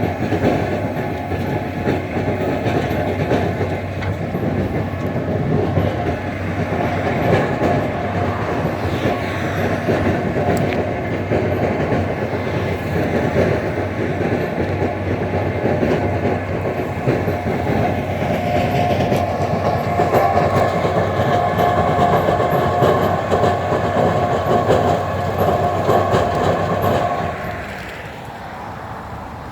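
A heavy vehicle running steadily with a dense clatter and a steady whine, dropping in level near the end.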